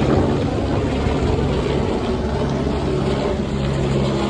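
A steady engine drone with a low, even hum, running without a break.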